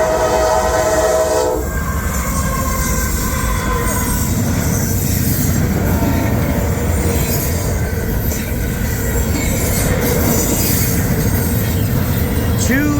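A locomotive's raised-letter K5LA five-chime air horn sounding a chord that cuts off about a second and a half in. Then the steady rumble of a long double-stack intermodal freight train rolling past on the rails.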